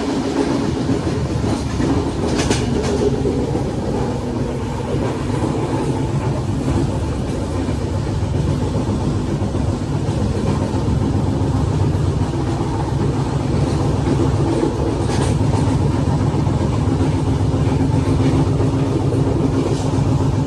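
Train running on the rails, a steady, loud rumble, with two brief higher-pitched rushes: one a couple of seconds in and one about three-quarters of the way through.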